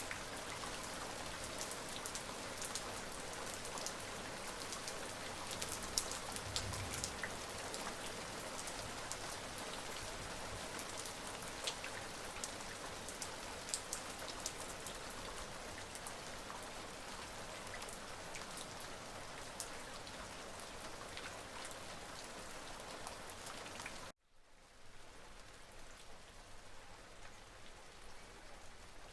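Steady rain falling, with individual drops ticking sharply over the hiss. About 24 seconds in the sound cuts out abruptly and returns noticeably quieter.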